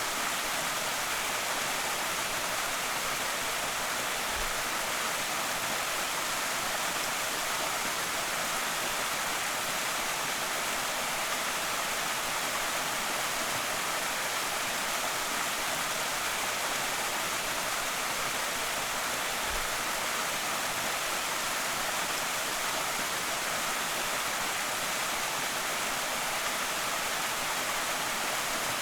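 Creek waterfall pouring steadily: an even, unbroken rush of falling water, bright and hissy rather than deep.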